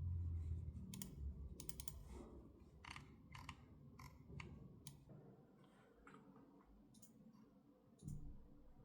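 Faint, irregular light clicks and taps, with a low rumble in the first second and a dull thump near the end.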